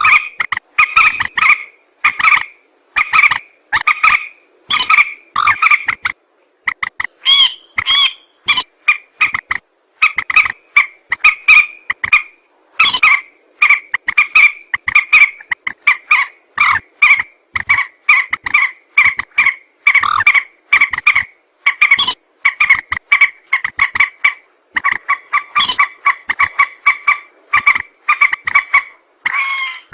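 Recorded lure call of a mandar, a rail-family water bird: a long, unbroken string of short, clipped notes, about two to three a second, each sitting on a pair of pitches.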